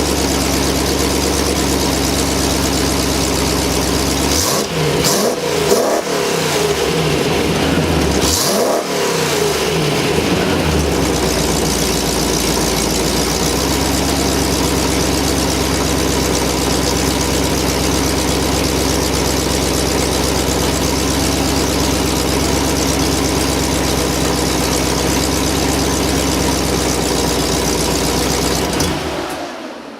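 TVR V8 engine with a freshly rebuilt exhaust running steadily, blipped up twice briefly about four and eight seconds in, then switched off near the end and dying away.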